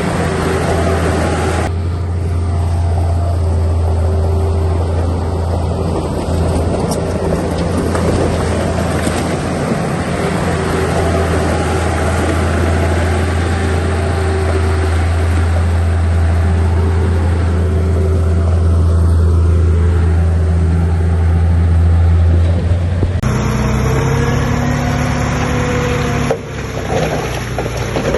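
Heavy diesel construction-machine engine running steadily with a deep hum. The sound changes abruptly a couple of seconds in and again twice near the end.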